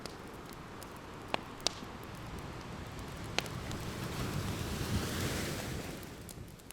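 Ocean waves washing ashore, one swell building to a peak about five seconds in and then receding, with a few sharp pops from a crackling wood fire, three of them in the first half.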